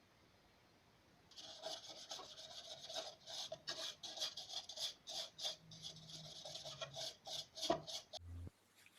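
A hand file rasping wood in quick, even back-and-forth strokes, about three a second. The strokes start about a second in and stop near the end with a brief low thump.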